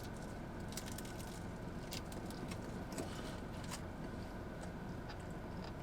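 Quiet chewing of a crispy egg roll: scattered faint crunchy clicks over a steady low background hum.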